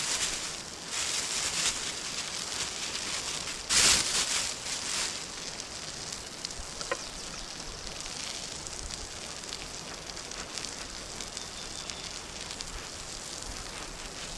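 Campfire cooking sounds: steady crackling and sizzling hiss with scattered small pops. There is a louder burst of hissing about four seconds in.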